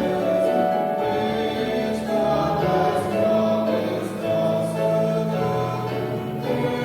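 A choir singing a slow hymn in harmony, with long held notes that change about every second.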